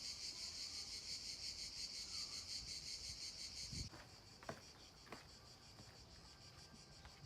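A dense, steady, high-pitched insect buzzing that drops off abruptly a little under four seconds in, leaving a fainter high hum with a few soft knocks.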